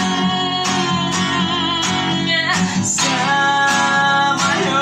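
Acoustic guitar strummed steadily as song accompaniment, in a gap between sung lines.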